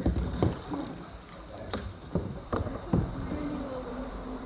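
Kayak paddling: a series of sharp knocks and splashes, about six in all, as the paddle strikes the water and the hull, over a low rumble. A steady low hum joins about three seconds in.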